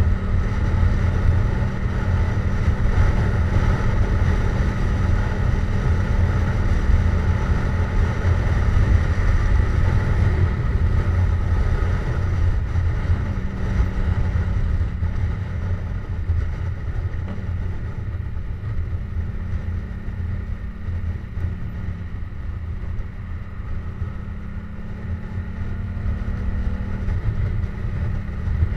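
Yamaha MT-07 parallel-twin with a Jeskap GP aftermarket exhaust running at a steady cruise while riding, with a deep rumble underneath. The engine note holds nearly level, with slight shifts in pitch about halfway and again near the end.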